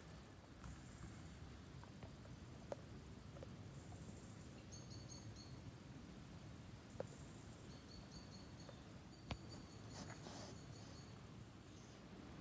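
Insects chirring steadily and high-pitched through the evening air, with a few faint short high chirps and small clicks over it.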